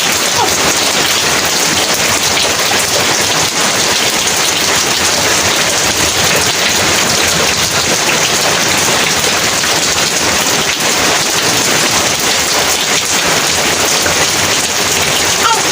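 Heavy rain falling steadily, a dense, even hiss without break.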